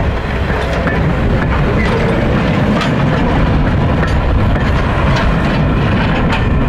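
Railroad passenger coaches rolling past, their wheels clicking irregularly over rail joints until the last car goes by about five seconds in. Wind buffets the microphone throughout.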